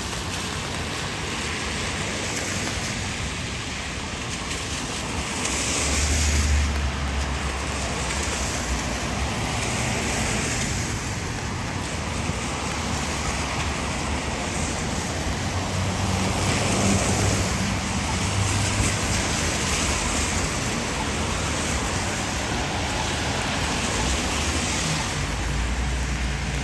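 Cars passing on wet city streets: a steady hiss of tyres on wet pavement, swelling every few seconds as vehicles go by with a low engine rumble.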